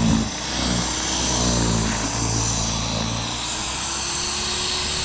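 An engine running steadily, its pitch wavering over the first three seconds and then settling into an even hum.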